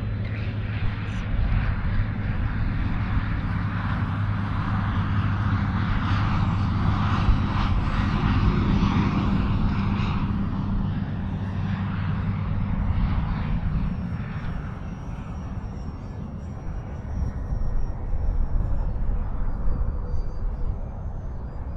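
Electric motor and propeller of a small foam-board RC plane droning in flight, strongest in the first half and fading after about 14 seconds, over a low rumble of wind on the microphone.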